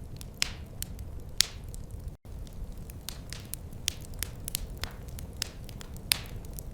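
Wood fire crackling: irregular sharp pops and snaps, a few louder than the rest, over a steady low rumble of burning. The sound cuts out for an instant about two seconds in.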